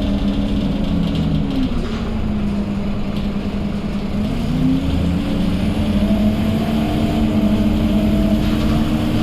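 Scania K230UB city bus's engine and drivetrain running with a steady droning whine. Its pitch drops about two seconds in, climbs back about four and a half seconds in, then holds steady.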